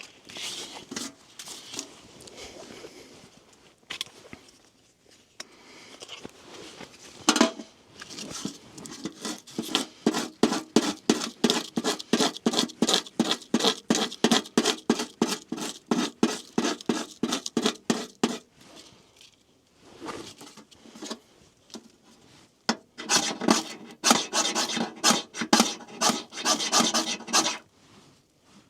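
Rhythmic rasping scrapes of a hand tool working wood or bark, about four strokes a second, in two long runs: one lasting about ten seconds and a shorter one near the end.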